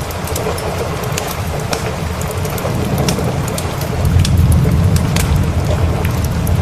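Steady rain with a low rumble of thunder that swells about four seconds in. Sharp ticks and crackles are scattered through it.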